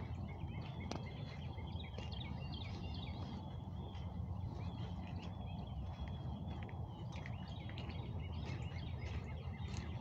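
Several songbirds chirping and calling throughout, many short overlapping chirps and warbles, over a steady low rumble.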